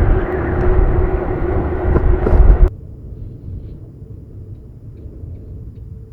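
Strong gusting wind rushing over the microphone with a steady whistling tone. It cuts off abruptly about two and a half seconds in, leaving a much quieter low rumble.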